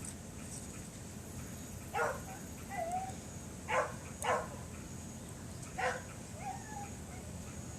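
A dog barking four times, two of the barks close together in the middle, with softer short whining calls in between.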